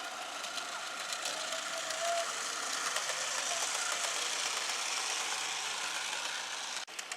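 Gauge 1 model train running along its track: a steady rattle with light clicks. The sound drops out briefly near the end.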